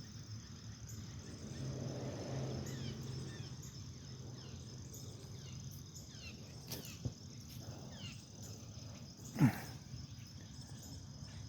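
Steady high-pitched chirring of crickets, with faint short bird chirps, a low hum for a couple of seconds near the start, a sharp click about seven seconds in and a short falling sound about two seconds later.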